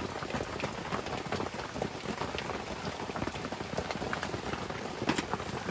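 Steady heavy rain pattering, with many individual drops ticking.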